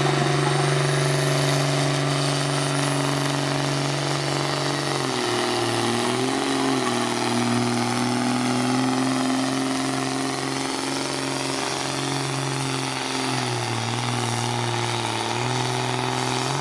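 Diesel engine of a pulling vehicle held at full throttle, hauling the sled under heavy load during a pull. Its steady note sags twice, about five seconds in and again near the end as the load bogs it down, then drops away as the run ends.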